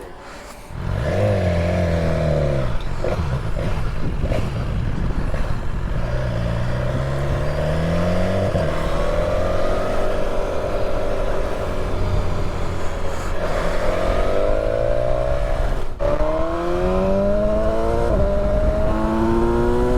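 Motorcycle engine under way, pulling away and accelerating, its pitch repeatedly climbing and then dropping back as it shifts through the gears.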